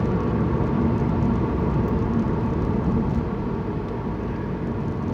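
Steady road and engine noise inside a moving car's cabin, a low even rumble with no sudden sounds.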